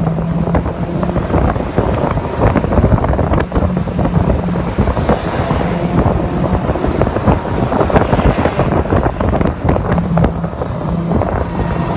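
Mazda MX-5 (NC) engine running under way, heard onboard, with heavy wind buffeting on the microphone. The engine note rises and falls a little and is largely drowned by the wind.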